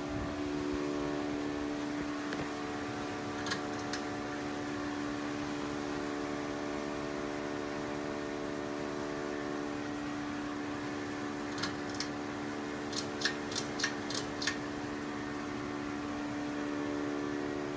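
Ceiling fan motor running with a steady electrical hum. Sharp clicks cut in twice about three and a half seconds in, then about seven come in a quick cluster two-thirds of the way through.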